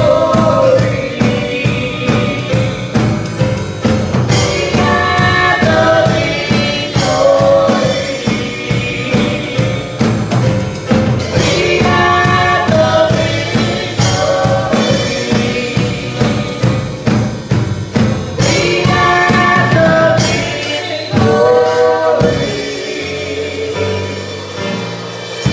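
Gospel choir song with a drum kit keeping a steady beat. About twenty seconds in the drums and bass drop out, and the song closes on a last sung phrase that fades away.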